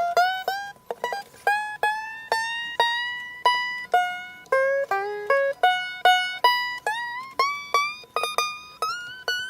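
Mid-1970s Fender F35 steel-string acoustic guitar played plugged in to check its pickup: a melodic line of single picked notes, several bent or slid upward in pitch, at about two to three notes a second.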